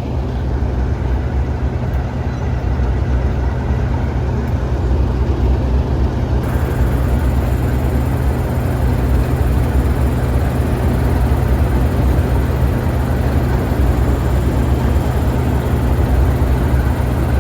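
Two Class 37 diesel-electric locomotives with English Electric V12 engines idling together, a steady low hum that neither rises nor falls, standing ready to depart.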